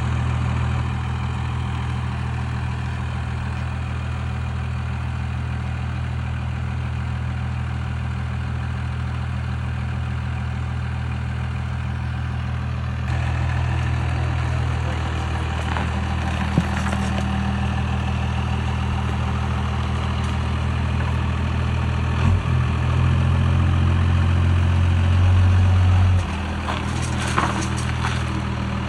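A heavy vehicle's engine running steadily with a low drone. It gets louder about halfway through, runs harder for a few seconds near the end, then drops back, with a few sharp knocks along the way.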